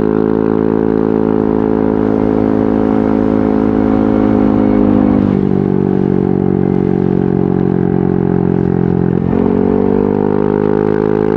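Yamaha NMAX 155's single-cylinder engine running steadily through a VMAX Onyx aftermarket muffler. Its pitch drops suddenly about halfway through, holds lower for about four seconds, then climbs back near the end.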